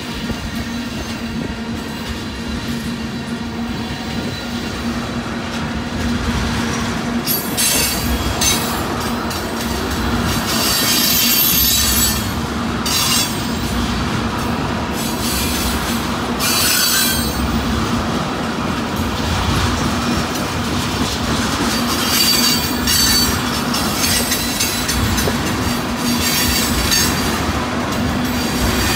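A freight train of loaded tank cars rolling past: steel wheels clattering over the rails. From about seven seconds in come repeated bursts of high-pitched wheel squeal.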